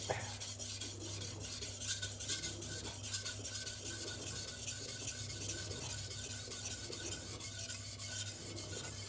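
A vegetable cleaver's edge being stroked back and forth on a 1000-grit silicon carbide waterstone, a quick, even run of gritty scraping strokes as the second side is ground to raise a burr. A steady low hum runs underneath.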